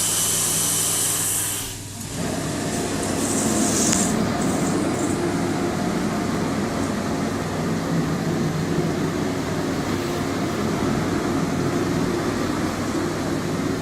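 Chem-Dry carpet-cleaning power head and extraction equipment running as cleaning solution is worked through the carpet: a loud hiss that dies away about two seconds in, then a steady machine drone.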